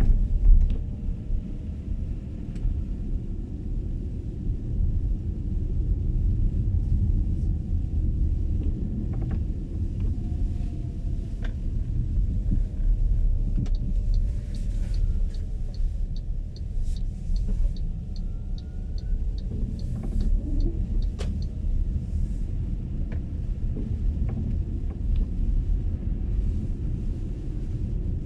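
Low, steady road and tyre rumble from an MG ZS EV electric car driving on a snowy road, heard inside the car. A faint, regular ticking at about two a second runs for several seconds around the middle.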